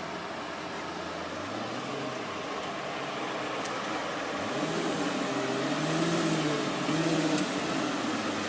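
A car engine running and growing louder, its pitch rising and falling in the second half, over a steady background of traffic noise.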